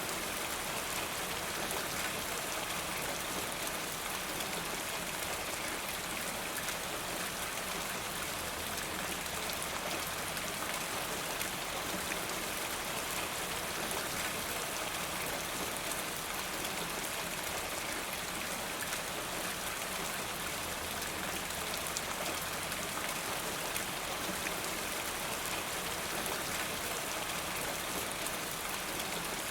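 Steady rain falling, with dense patter of drops and water running off a rain gutter.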